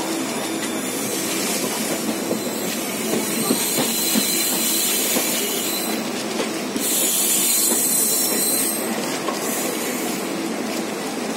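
Passenger train running along the track: a steady rumble and rush of air, with scattered clicks of the wheels over rail joints. A brighter hiss swells for about two seconds a little past the middle.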